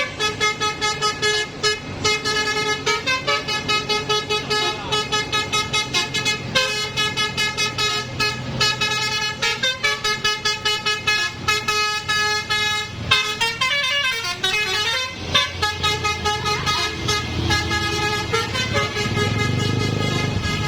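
Vehicle horn honking in rapid repeated blasts, several tones sounding together, shifting pitch about two-thirds of the way through, over low road-vehicle engine noise that grows near the end.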